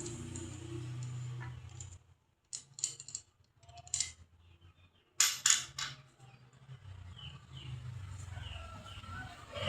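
Several short, sharp clicks and clinks of hard objects in three quick groups, over a faint low hum.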